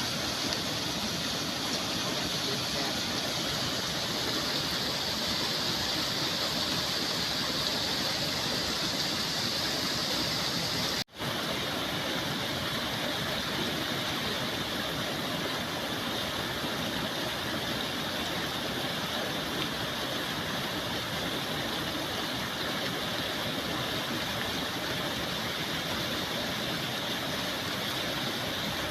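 Flowing water rushing steadily, an even hiss without a break in rhythm. The sound cuts out for an instant about eleven seconds in.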